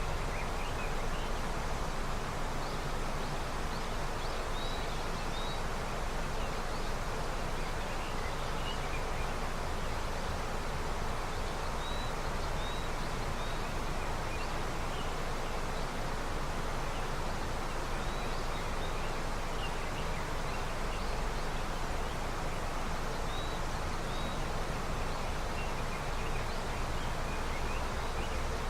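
River running high with early snowmelt, a steady rush of water. Small high bird chirps come through now and then over it.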